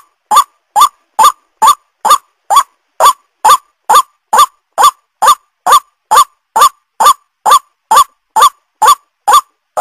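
White-breasted waterhen (ruak-ruak) calls, each a short rising note, repeated steadily about twice a second, as played for a bird lure.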